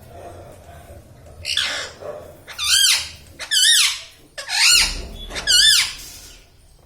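Indian ringneck parrot calling: five loud, wavering, high-pitched calls about a second apart, the first one quieter.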